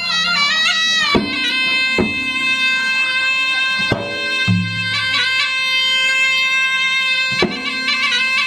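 Traditional Bugis-Makassar gendang drum ensemble music. A nasal, bagpipe-like reed pipe plays a continuous melody with quick ornamented turns over a few sharp drum strokes and deep drum beats.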